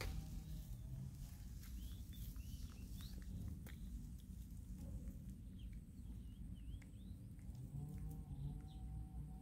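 Small birds chirping in short groups of quick up-and-down notes, over a steady low outdoor rumble with a few light rustles and ticks.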